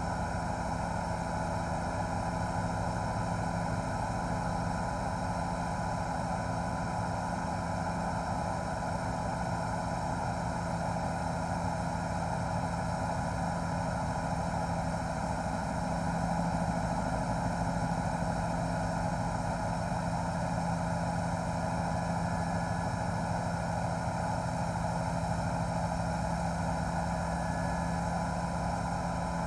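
News helicopter's engine and rotor running steadily, heard from on board as a constant drone with several steady tones and no change.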